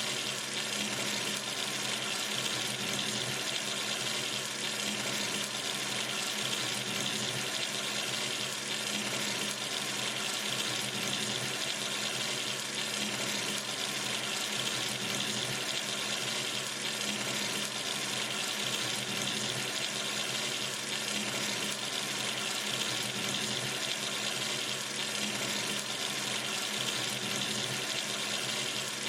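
Sink tap running steadily, water splashing into the basin in an even, unbroken rush.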